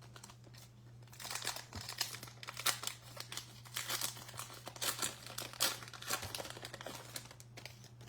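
Plastic wrapper of a Topps Archives baseball card pack being torn open and crinkled by hand, in irregular bursts of crackling.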